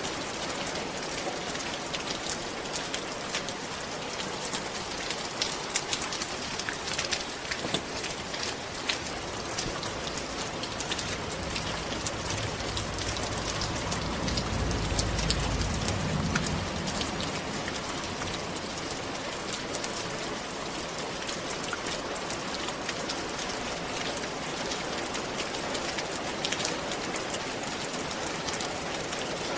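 Steady rain falling on a roof: a constant hiss dotted with sharp drop ticks. A low rumble swells and fades about halfway through.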